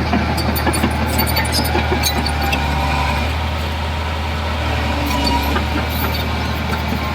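Heavy diesel construction machine engine running steadily, with scattered light clanks over it.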